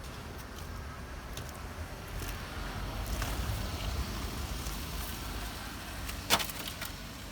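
A motor vehicle passing on the road, its low rumble rising and then fading away, with one sharp knock about six seconds in.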